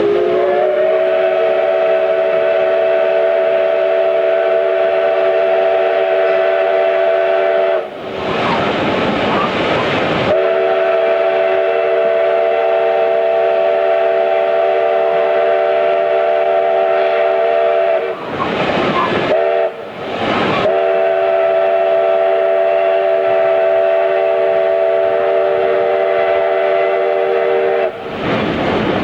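Multi-tone chime steam whistle of ex-Canadian Pacific 4-6-2 steam locomotive No. 1278 blowing the grade-crossing signal: two long blasts, a short one, then a long one. The rushing and clatter of the moving train fill the gaps.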